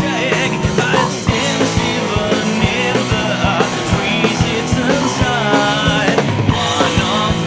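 A rock band playing a loud punk/grunge-style passage, with the drum kit struck in a steady beat under bending lead lines and a full band.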